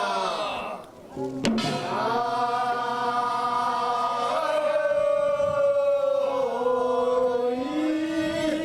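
Korean traditional field song (deulsori) sung in a chanting style, with long held, slowly wavering notes. The singing breaks off briefly about a second in, with a sharp click, then resumes.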